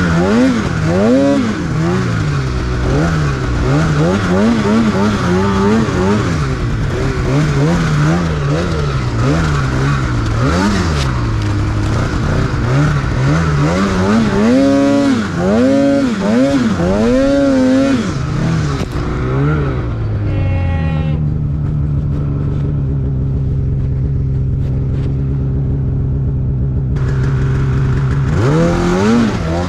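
Snowmobile engine revving up and down over and over as the throttle is worked through powder, then settling to a steady idle for several seconds about twenty seconds in, and revving up again near the end.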